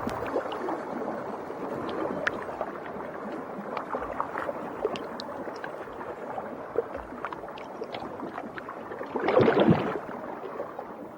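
Underwater ambience: a steady hiss sprinkled with many small clicks, with a louder gurgling swell about nine seconds in.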